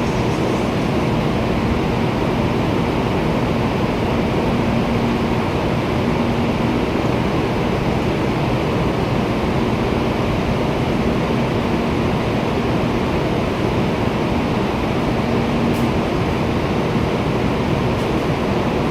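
Steady rushing noise of a standing Shinkansen train, with a faint low hum that comes and goes and two faint clicks near the end.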